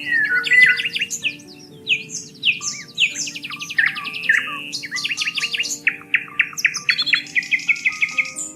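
Several songbirds chirping and singing at once, with rapid trills, quick repeated notes and short whistled glides. Underneath is soft background music of long held notes.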